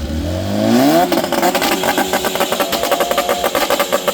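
A car engine revved up over about a second, then held high with a rapid, even stutter before dropping back near the end.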